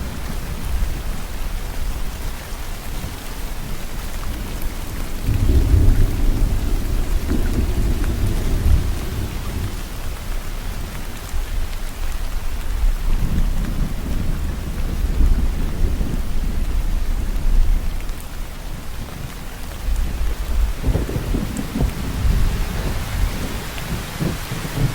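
Steady rain falling, with rolls of distant-sounding low thunder rumbling up three times, the strongest about five seconds in.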